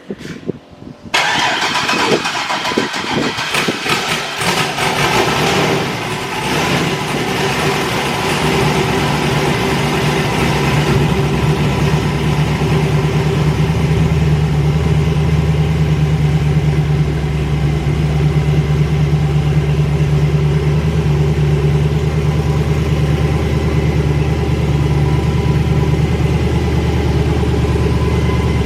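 Twin-turbo Camaro engine cranking briefly, catching about a second in and running unevenly for several seconds, then settling into a steady, loud idle. It is a first start after months of sitting, with no downpipes fitted, so the exhaust leaves the turbos open.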